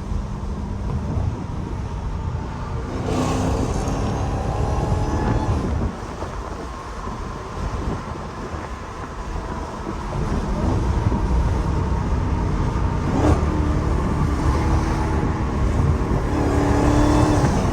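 Straight-piped Dodge Challenger Hellcat's supercharged Hemi V8 under way, heard with the window down. The exhaust rises in pitch under throttle about three seconds in, drops back about six seconds in, and climbs again near the end.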